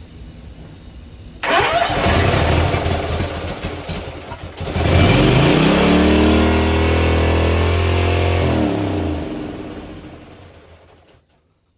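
Kawasaki FR691 V-twin mower engine being cranked by its starter, catching a few seconds later and running up to speed, then winding down to a stop near the end. This is its first start after a cylinder-head rebuild; it fires right up, but the owner says the carburetor still needs a little adjustment.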